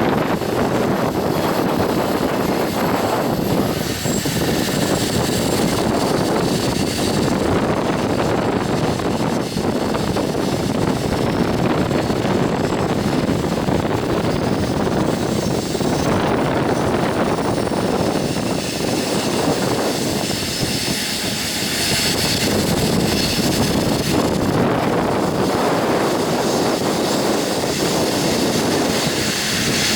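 Coal train rolling past on steel wheels and rails: a loud, steady rumble and roar that swells and dips slightly.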